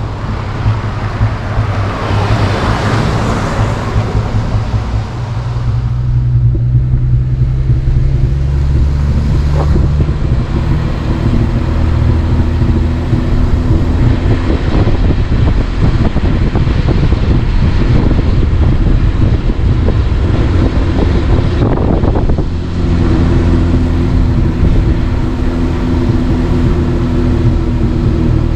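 Car driving, with the engine and tyre noise running steadily and a rushing swell of noise a few seconds in.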